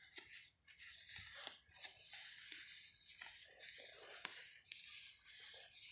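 Near silence: faint rustling with a few scattered light clicks.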